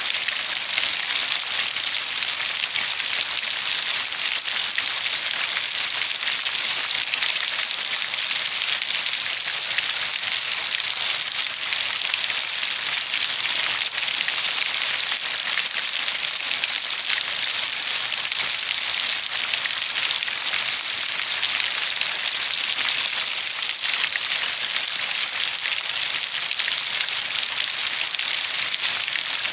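Steady heavy rain falling on a surface: a dense, even hiss of drops with fine pattering, unchanging throughout.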